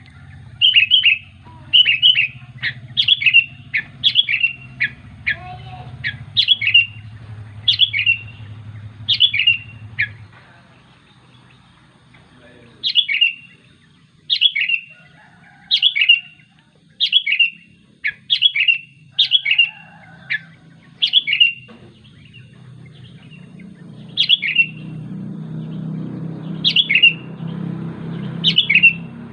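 Sooty-headed bulbul (kutilang) repeating short, sharp calls, about one a second, with a pause of a couple of seconds about a third of the way in: calls to its companions. A low steady hum runs underneath and grows louder near the end.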